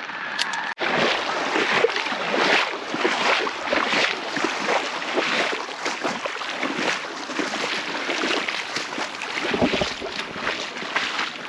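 Sloshing and splashing of someone wading through shallow water, with wind noise on the microphone.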